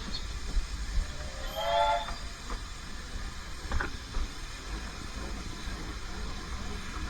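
Steam locomotive whistle giving one short blast about one and a half seconds in, over the steady low rumble of the train running. A sharp click follows a couple of seconds later.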